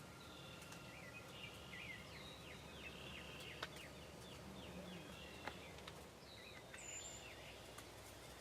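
Faint songbirds singing repeated chirping phrases over a steady background hiss, with a couple of sharp ticks and a short high whistle near the end.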